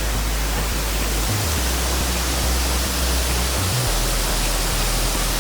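Large waterfall rushing: a loud, steady wash of falling water with a low rumble underneath.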